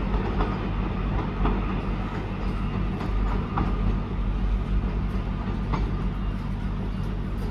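Train running at the platform, a steady low rumble with a few faint clicks from the wheels over the rails.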